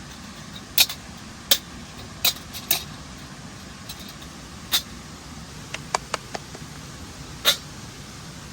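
Sharp wood cracks and pops at irregular intervals, about a dozen in all, a few of them loud, over a steady low background rumble.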